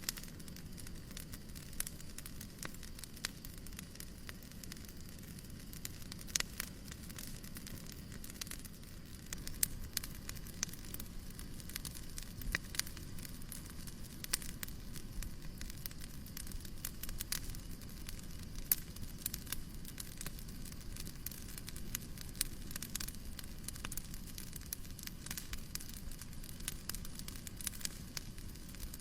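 Wood fire crackling in a fireplace: irregular sharp pops and snaps over a steady soft hiss of white noise.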